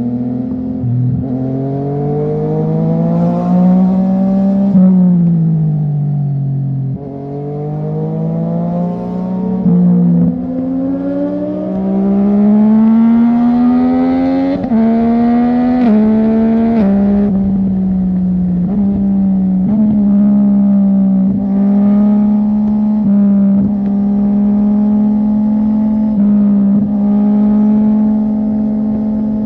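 Yamaha MT-09's inline-triple engine through a de-catted full-system exhaust, heard onboard at speed. The engine note climbs through the gears with several quick upshifts, eases off once around five seconds in, then holds a steady cruising pitch for the second half.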